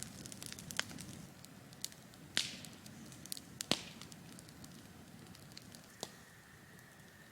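Campfire crackling, with scattered sharp pops of burning wood; the loudest come about two and a half and three and a half seconds in.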